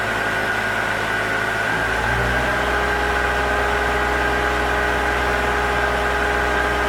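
IHI 25V-4 mini excavator's diesel engine running steadily, with a shift in its low hum about two seconds in.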